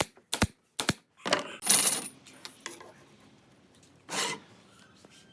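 A series of sharp metallic clicks and clinks, a few a second, followed by a couple of longer scraping rattles and one more short burst about four seconds in, as of small metal hardware or tools being handled in woodworking.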